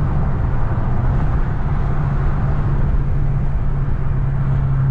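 Dodge Scat Pack's 392 HEMI V8 running at a steady cruise, heard from inside the car: an even engine drone that holds one pitch without revving, over road noise.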